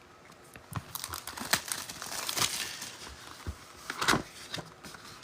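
A trading-card pack wrapper being torn open and crinkled by hand: irregular crackles and rustles, with the sharpest snaps about a second and a half in and again about four seconds in.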